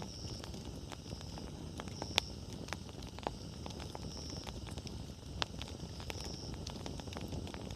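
Wood fire crackling: scattered sharp pops and snaps, the sharpest about two seconds in, over a low steady rumble of burning wood. A short high chirp repeats about every two seconds.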